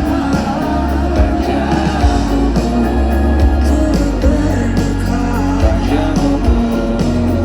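A live pop-rock band plays loudly, with a heavy bass line, drum hits and singing voices.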